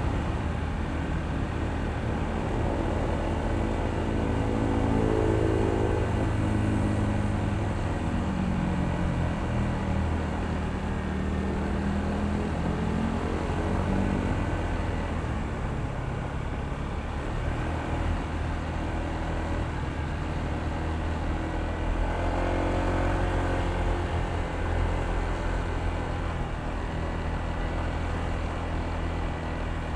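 Honda ADV160 scooter's single-cylinder engine running under way, its pitch rising and falling with the throttle as it speeds up and slows, over a steady rumble of wind and road noise.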